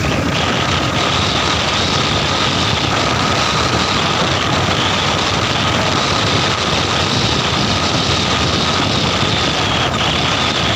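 Motorcycle running steadily on the move: a constant engine drone under a steady rush of noise, with no change in speed.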